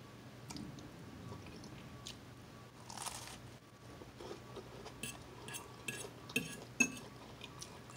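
Close-up mouth sounds of a person biting and chewing a piece of croissant, quiet and moist, with a few faint clicks near the end.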